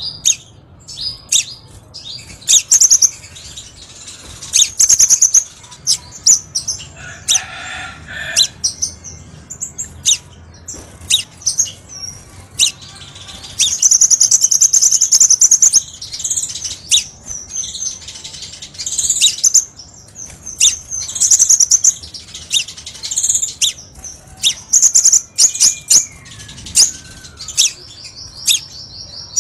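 Crimson sunbird singing: a busy run of high, sharp chirps, ticks and fast trills, with longer trilled phrases about 14 s in and again near the end.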